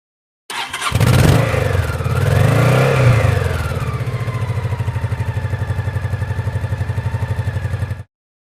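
An engine starting, revving up and back down once, then idling with a steady, even putter until it cuts off suddenly.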